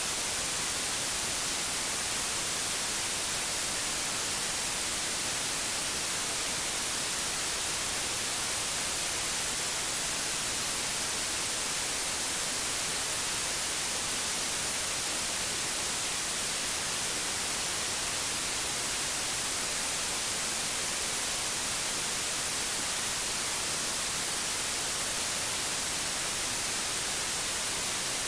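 Synthetic white noise: a steady, even hiss with no variation in level.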